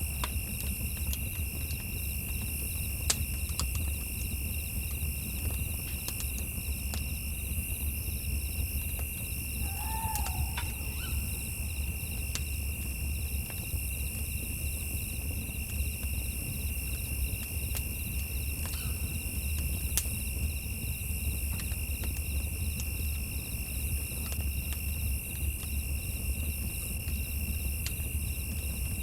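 Night insects trilling: one steady high trill with a higher one pulsing in short dashes over it, and a campfire giving scattered sharp crackles and pops over a low rumble. A short bird call comes about ten seconds in.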